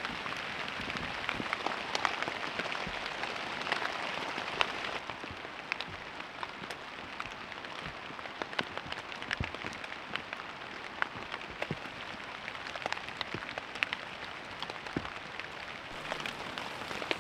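Steady rain falling, with many individual drops tapping sharply through the hiss; it eases slightly about five seconds in.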